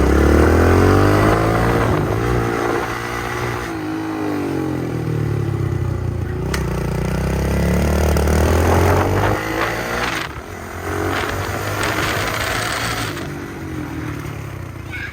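Small dirt bike engine accelerating and easing off again and again, its pitch rising and falling, growing fainter after about ten seconds.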